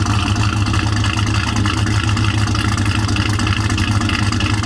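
Cammed Chevrolet Silverado SS V8, said to make about 750 hp to the wheels, idling steadily.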